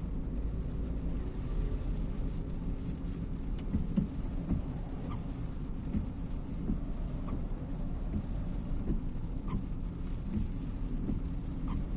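Inside a car driving in the rain: a steady low rumble from the engine and road, with scattered light ticks.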